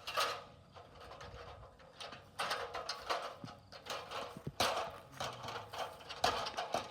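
Pressure washer spray hitting the house in uneven hissing bursts and splatters as the wand is swept on and off the surface.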